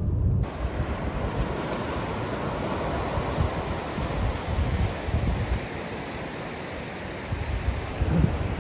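Sea waves washing on the shore in a steady wash of surf, with wind buffeting the microphone in uneven low rumbles.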